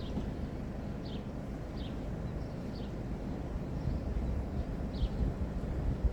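Steady low outdoor rumble, with short high chirps every second or so.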